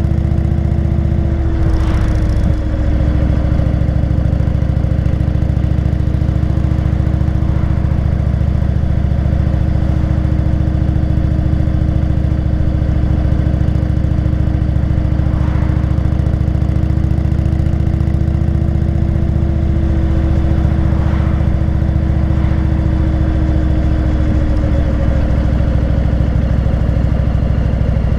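Indian motorcycle engine running at a steady cruising speed, heard from on the bike. Its note holds nearly level and breaks briefly about two seconds in.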